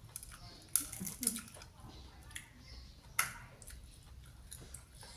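Close-up eating sounds: chewing and crunching crispy battered deep-fried food, with sharp crunches about a second in and again near three seconds.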